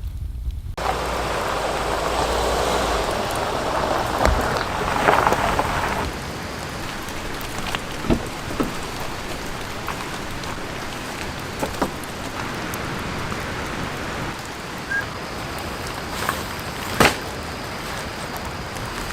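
Steady rain falling, with scattered sharp taps of heavier drops. It grows louder about a second in and is heaviest for the first few seconds.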